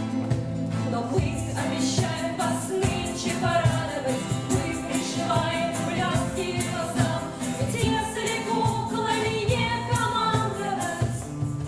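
Live singing with acoustic guitar strummed alongside.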